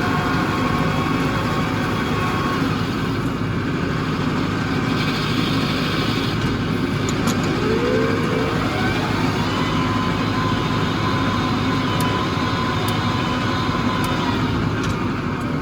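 Tractor diesel engine running steadily, with a brief rising whine about eight seconds in.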